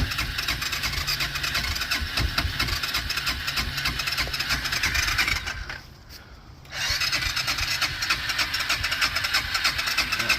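A four-wheeler's electric starter cranking the engine through a newly wired starter switch, in two long runs with a pause of about a second in the middle. The engine does not catch, which the owner puts down to it needing gas.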